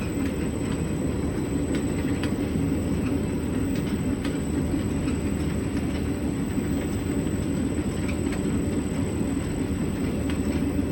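Automatic belt-driven winding machine running: its electric motor, belts and shafts turning steadily as it winds spunbond onto a shaft. It makes a continuous low mechanical hum with a few faint ticks.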